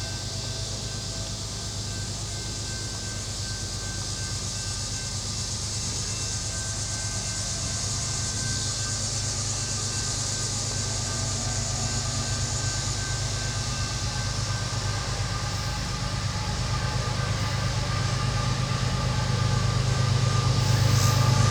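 Diesel-electric locomotives approaching with a steady low engine drone that grows steadily louder.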